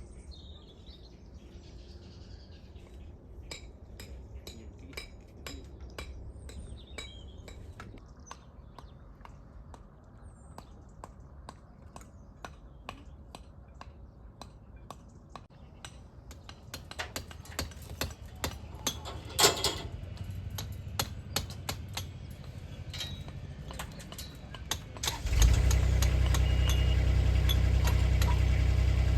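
Scattered light clinks and taps that grow more frequent, then an engine starts abruptly near the end and runs steadily.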